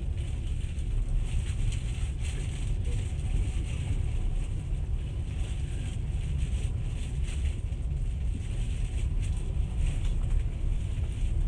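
Steady low rumble and hiss of a passenger train running slowly along a station platform, with wind buffeting the microphone.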